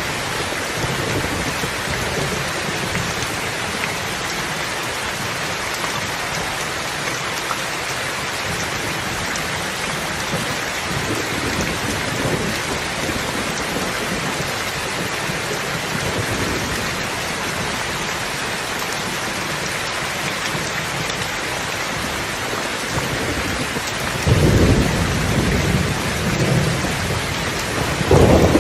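Steady heavy rain with a hiss of drops on surfaces; thunder rumbles in low and loud near the end, twice.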